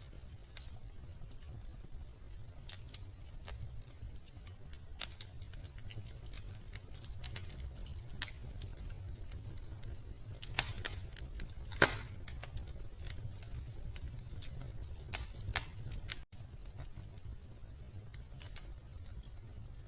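Wood fire in a fireplace crackling: scattered sharp pops and snaps over a low steady rumble, the loudest pop coming about twelve seconds in.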